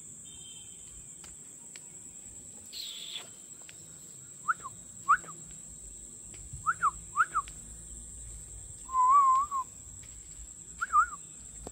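Wild bird calls: a series of short, sharp whistled notes, each dropping quickly in pitch and some in quick pairs, with one longer warbling call about nine seconds in. A steady high-pitched insect buzz runs underneath.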